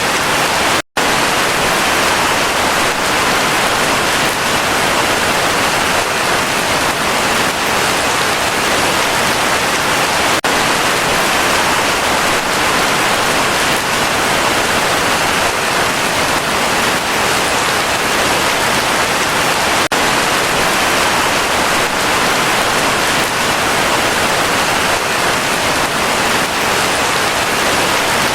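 Heavy rain falling steadily, a dense even hiss with no let-up, broken by a split-second dropout about a second in.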